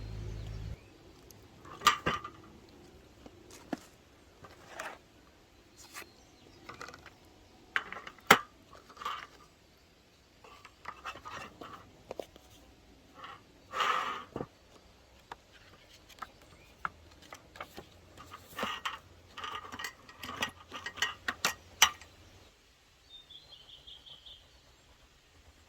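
Irregular clinks, taps and clatters of camp cookware and utensils being handled, in short bursts stopping about 22 seconds in. A bird chirps briefly near the end.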